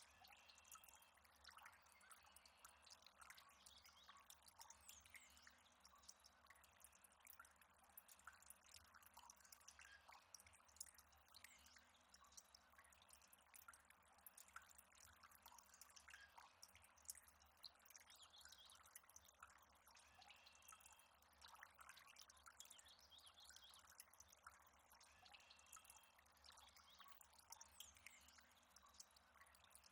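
Faint water dripping and trickling: many small drips land irregularly over a soft steady wash of water.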